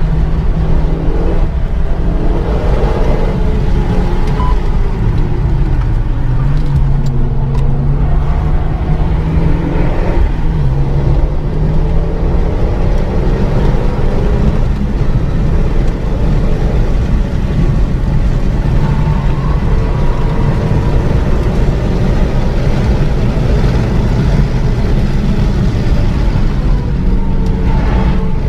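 Renault Mégane 3 RS Trophy's turbocharged 2.0-litre four-cylinder engine under hard acceleration, its note repeatedly climbing and then dropping back as the car works through gears and corners.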